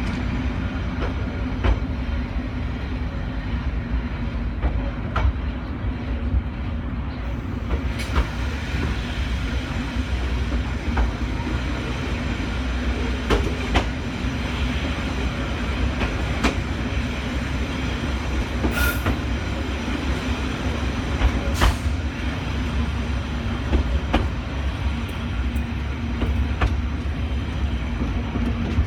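Train running on the Dalat railway between Trai Mat and Dalat: a steady low rumble and hum, with sharp wheel clicks over rail joints every few seconds.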